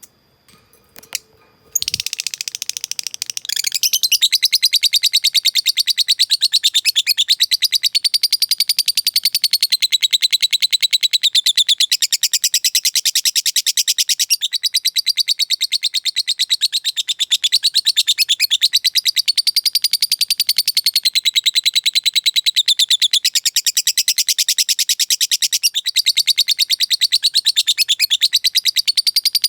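Lovebird ngekek: one long, unbroken, very rapid chattering trill of high-pitched notes, its pitch wavering up and down. It starts about two seconds in, after a few faint clicks.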